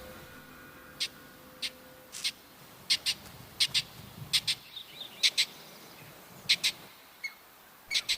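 American pika giving short, high-pitched alarm calls, about a dozen in all and often in quick pairs: a warning to other pikas that a predator, here a coyote, is in sight.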